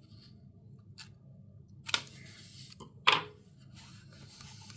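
Hands handling a paper journal and washi tape: three sharp clicks or taps about a second apart, the loudest a little past the three-second mark, with soft paper rustling between them.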